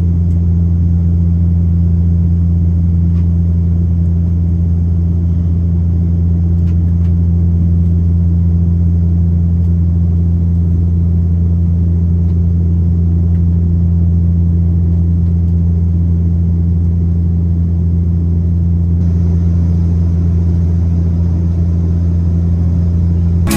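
Airliner cabin noise in flight: a loud, steady engine and airflow drone with a strong low hum.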